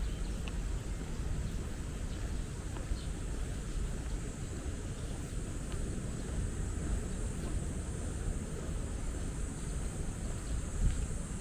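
Outdoor park ambience: a steady, fluttering low rumble of wind on the microphone and distant city traffic, under a faint steady high hiss and a few brief faint chirps. A short thump sounds near the end.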